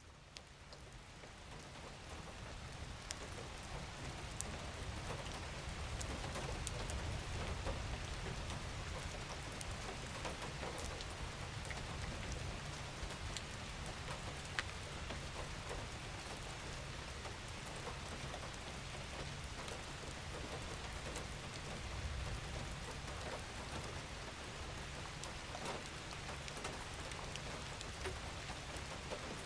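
Steady rain falling, fading in over the first few seconds, with scattered individual drops and a low rumble beneath.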